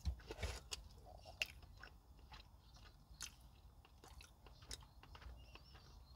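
Quiet, close-up chewing of stewed chicken and cabbage: irregular wet smacks and small mouth clicks, a few louder ones in the first second and a half.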